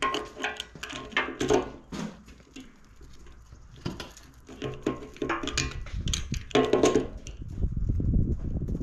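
Metal parts clinking and rattling as they are handled and fitted during generator reassembly, with a denser rattle near the end.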